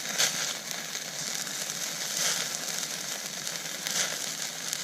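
Food sizzling over a campfire: a steady hiss with small crackles and two louder pops, one just after the start and one near the end.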